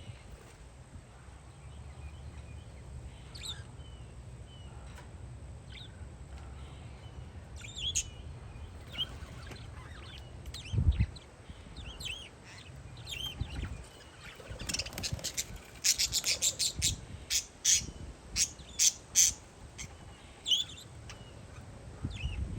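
Parakeets chirping, with scattered calls and then a fast run of sharp chirps in the second half. Wind rumbles on the microphone underneath, with a single thump near the middle.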